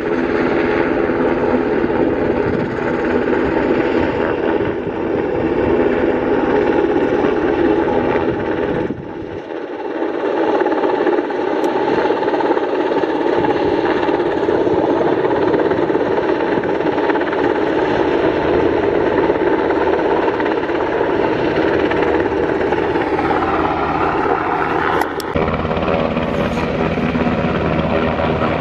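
US Coast Guard helicopter flying close by, its rotor and engine running loud and steady. The sound thins briefly about a third of the way in and shifts in pitch about three-quarters of the way through.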